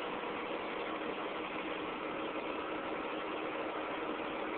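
Caterpillar 235 excavator's diesel engine idling steadily.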